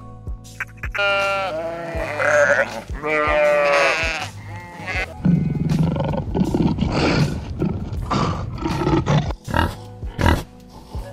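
Background music with a steady beat runs under animal sounds. From about a second in, a few loud, wavering, high calls are heard. From about five seconds a lion growls with a low, rough sound, and short pig grunts follow near the end.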